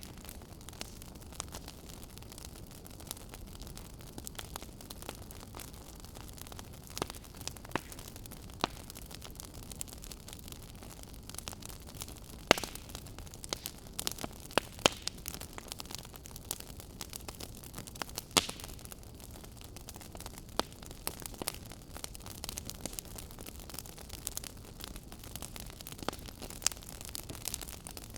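Wood fire crackling in a fireplace: a steady low hiss with irregular sharp pops and snaps, the loudest few around the middle.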